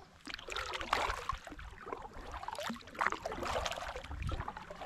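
Kayak paddle strokes on calm water: the blade dipping in and dripping, with a splash about every two seconds.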